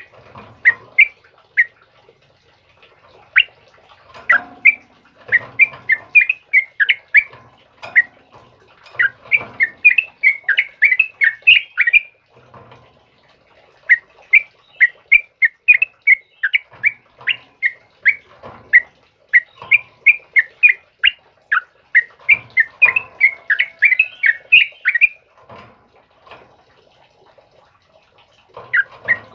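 Yellow-vented bulbul (trucukan) singing: rapid, bubbly runs of chirped notes in phrases of several seconds, with short pauses between phrases.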